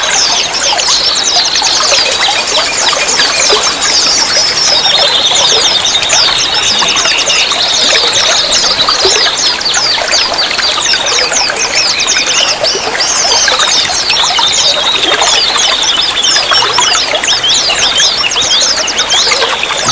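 Water trickling and splashing steadily, as in a stream or small fountain, with many quick high chirp-like notes and a thin steady high tone over it.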